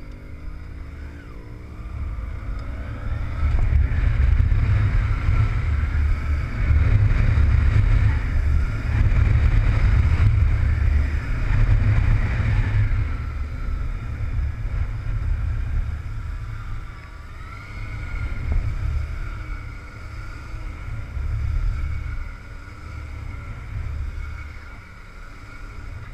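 Motorcycle engine running at a steady throttle while the bike is flicked back and forth in a steering drill, its pitch rising at first and then wavering up and down, under heavy wind rumble on the microphone.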